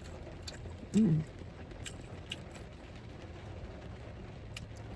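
A short hummed vocal sound from the eater about a second in. Faint scattered clicks and taps follow, from chopsticks and eating at close range.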